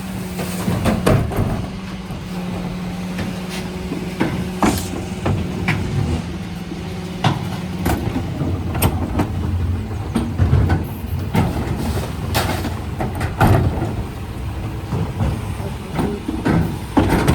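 Mercedes Econic refuse truck running, with a steady low hum that stops about halfway through and a string of knocks and clunks throughout.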